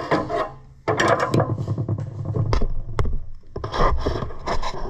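Repeated scraping and rubbing as old wiring is dragged out of a garden tractor's body, with a couple of sharp clicks about two and a half and three seconds in.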